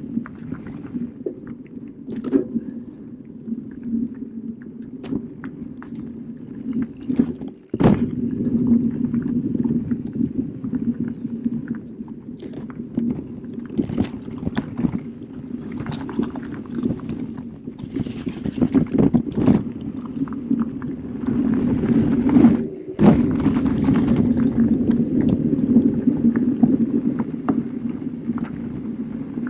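Specialized Turbo Kenevo SL e-mountain bike ridden over a forest trail: a steady rumble of tyres rolling on dirt, with frequent knocks and rattles as it goes over bumps. The sound cuts out briefly twice.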